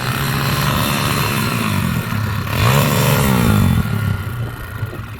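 Pit bike's small single-cylinder engine running, revving up about halfway through and dropping back toward the end.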